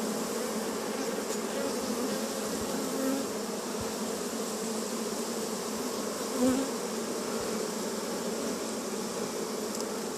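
Honeybees buzzing steadily in and around an opened hive, a dense, even hum of many bees, with a brief louder swell about six and a half seconds in.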